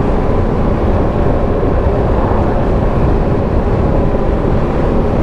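Motorcycle running at a steady pace on the road, its engine mixed with road and wind noise.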